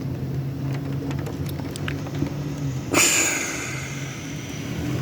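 Rain ticking and pattering on a window over a steady low hum, broken about three seconds in by a sudden loud hiss that fades away over a second or so.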